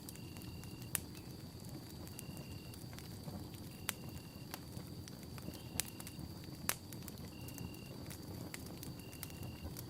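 Campfire burning: a low, steady rush with sharp pops of burning wood, the loudest about one, four, six and seven seconds in. Over it sit a steady high whine and a short high chirp repeating about every two seconds.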